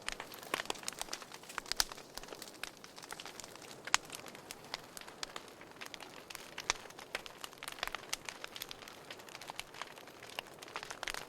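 Fire crackling in a fireplace: a steady run of irregular small pops and snaps, with one sharper, louder pop about four seconds in.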